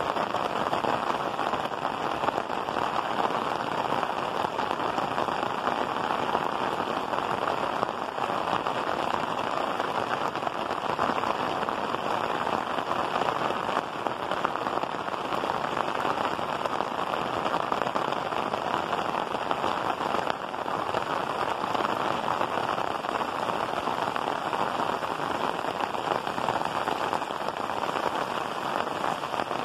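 Rain falling steadily on clay roof tiles, an even wash of sound with no breaks or separate events.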